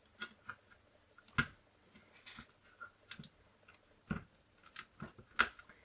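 Irregular plastic clicks and taps from hands working on an opened Commodore 64, about a dozen in all, with the sharpest knocks about a second and a half in, about four seconds in and near the end.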